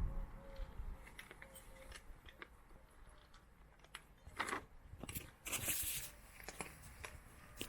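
Cat crunching dry food with its head in a bag: irregular crisp crunches and clicks, with the bag rustling loudly a couple of times past the middle.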